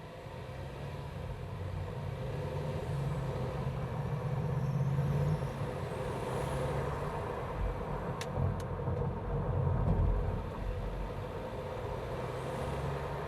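BMW B48 2.0-litre turbocharged four-cylinder engine running, heard from inside the engine bay. Its hum builds for about five seconds, then drops suddenly. Two sharp clicks come about eight seconds in.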